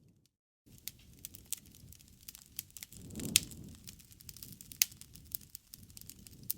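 Wood fire crackling: many sharp pops and snaps over the low rush of the flames, with a louder pop and a brief swell of the flames about three seconds in and another sharp pop near five seconds. The sound drops out completely for a moment at the very start.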